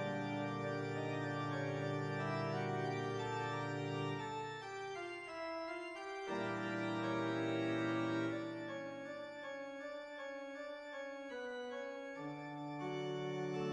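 Organ music playing sustained chords that change every second or two.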